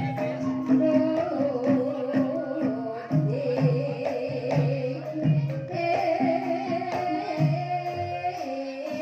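Banyumasan gamelan playing a gending in the ebeg (kuda lumping) style, with a singer's wavering melody over steady struck notes and drum strokes.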